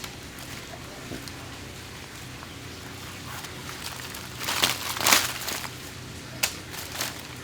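Wild oysters being handled into a black mesh bag: two bursts of rustling and shell scraping about four and a half to five seconds in, then a sharp click, over a low steady hum.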